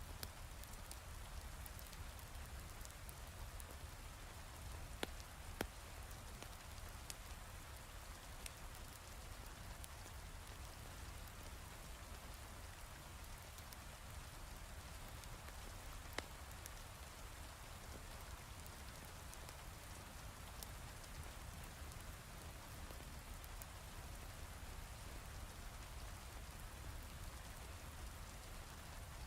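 Heavy rain falling steadily, with a few sharp crackles from a wood fire scattered through.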